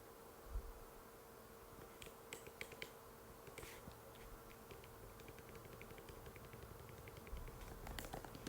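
Typing on an Apple MacBook butterfly keyboard: faint, light key clicks in irregular runs, with a quick, even run of keystrokes in the middle and a low thump about half a second in.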